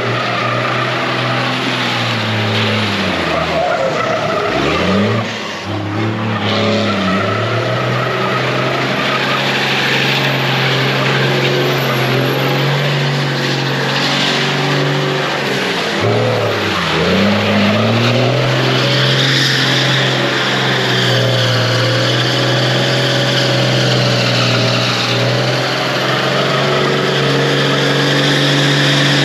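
Dodge Ram dually pickup doing doughnuts on wet pavement: the engine is held at steady revs while the tires spin with a constant hiss. The revs drop sharply and climb back twice, and a higher whine joins in for the last ten seconds.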